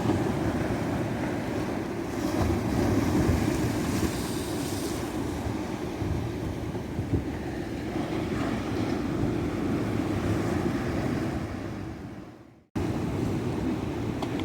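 Ocean surf washing steadily onto a tropical beach, swelling and easing. About 12 s in the sound fades out fast and then cuts straight back in, an edit splice in the recording.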